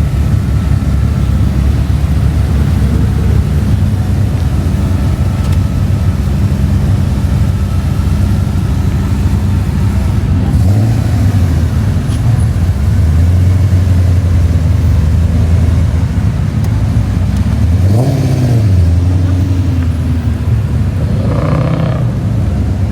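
Car engines running at low revs nearby, with a rev that swells up and back down about halfway through and again a few seconds later.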